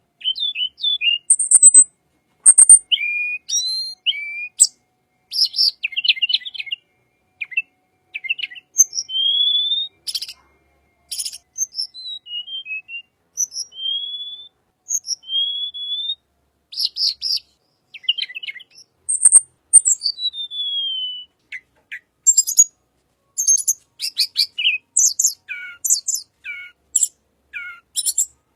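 Tledekan bird singing a varied song of short chirps, fast trills and clear whistled notes that slide up and down, in quick phrases with short pauses between them.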